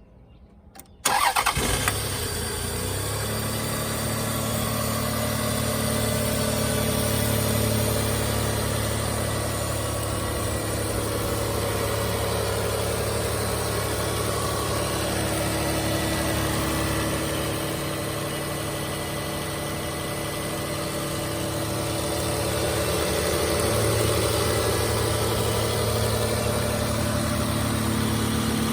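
1997 Lexus ES300's 3.0-litre V6 cranking briefly and catching about a second in, then idling steadily on a cold start.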